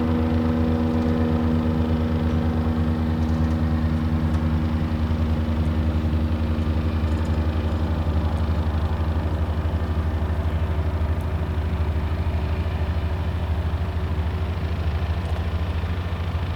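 Light propeller aircraft's piston engine running steadily, a low even engine note.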